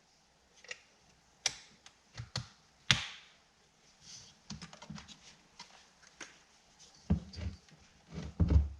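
Irregular clicks and knocks of metal parts being handled and fitted as a small polished stainless trim piece is set back onto a truck door's vent window, ending in a few duller thumps.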